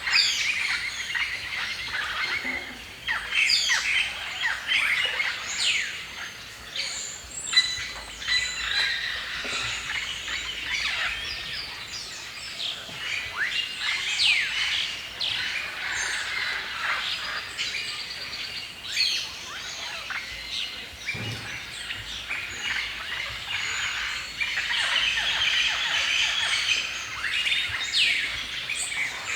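Several songbirds singing and chirping together in a steady forest chorus, with many quick overlapping calls, trills and whistled notes.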